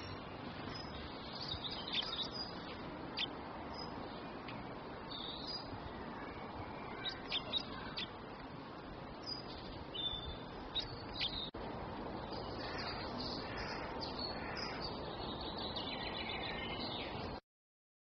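Small garden birds chirping in short, sharp calls scattered over a steady background hiss. The sound cuts off suddenly near the end.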